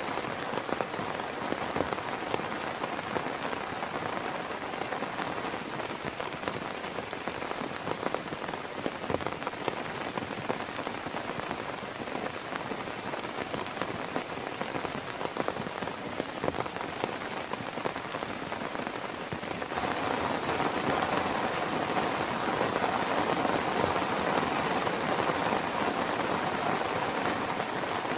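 Heavy rain falling steadily, a dense patter of drops that grows louder and heavier about two-thirds of the way through.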